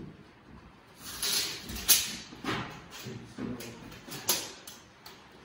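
A run of irregular knocks and scraping, handling noise, with about half a dozen sharper strokes; the loudest comes about two seconds in.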